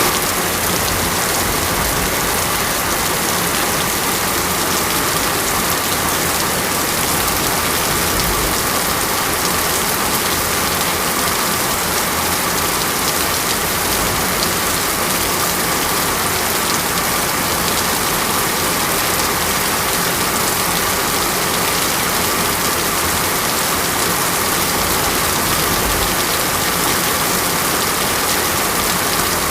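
Heavy, steady rain falling on surfaces: a dense, even hiss of drops with no let-up.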